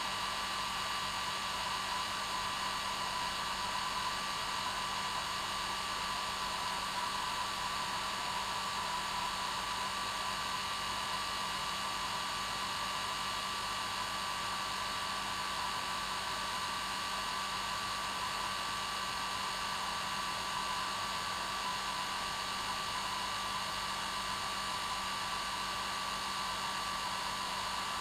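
Hair dryer running steadily, an even hiss of blown air with a steady whine from its fan motor, used as white noise to help a baby sleep.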